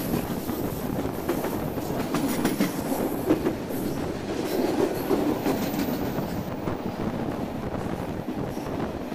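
Passenger train cars rolling along the track, heard from an open car window: a steady rumble of wheels on rail with scattered clacks, more of them in the first half.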